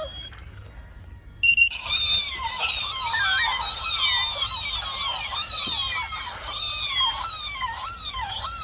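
Electronic bird chirping from caged toy birds: after a short beep about a second and a half in, many warbling chirps overlap in a dense, continuous chatter.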